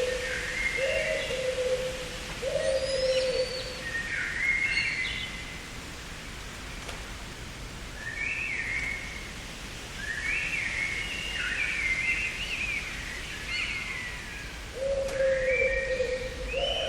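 Garden birdsong: several birds singing short, high, chirping phrases, with a lower bird's call repeating in short notes during the first few seconds and again near the end, over a steady faint hiss.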